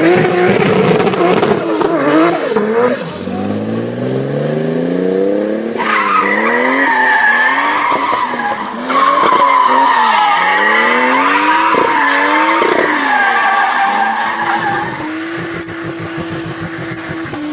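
A car's engine revving hard, its pitch climbing and then rising and falling several times, with loud tyre squeal over much of it; near the end the squeal stops and the engine holds a steadier, lower note.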